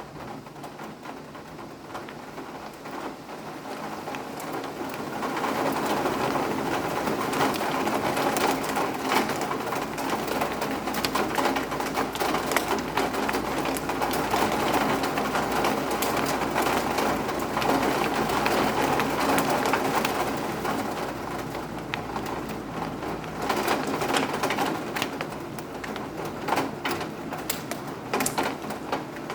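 Rain falling steadily, with individual drops and drips tapping on a surface. The rain grows heavier a few seconds in and eases off again after about twenty seconds.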